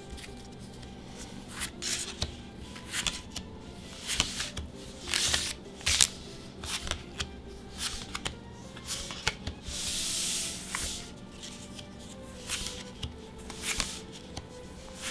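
Magic: The Gathering trading cards being handled one after another, with quick flicks and snaps as cards are slid off the stack. A longer sliding rub about ten seconds in.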